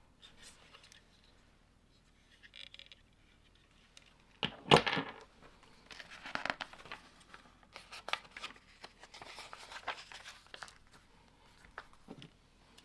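Lego parts being handled during building: crinkling and rustling, with one sharp clack a little under five seconds in and more rustling after it.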